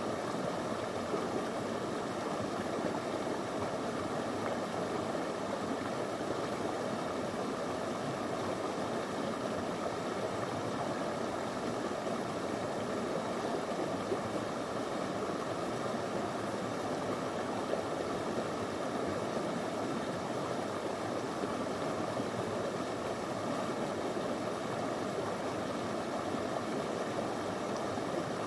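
Small stream of clear water flowing steadily over stones, a continuous even rushing with no breaks.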